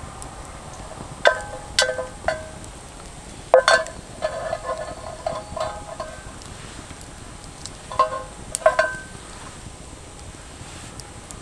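Light metal clinks, about ten knocks in small groups, each ringing briefly with a bright tone.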